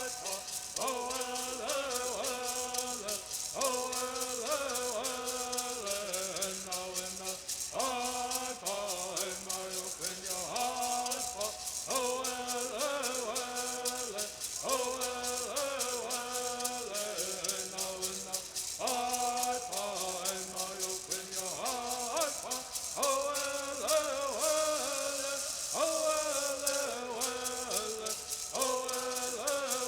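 Southern California Native American bird singing: voices singing together in short phrases that step down in pitch and repeat every few seconds, over gourd rattles shaken in a fast, unbroken rhythm.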